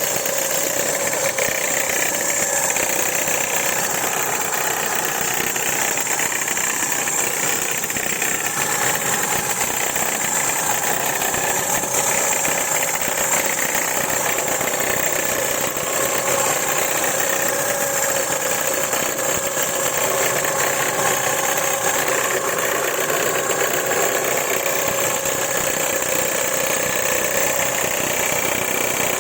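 Renault Laguna III 2.0 petrol engine idling steadily, with a knock in it that the owner cannot pin down.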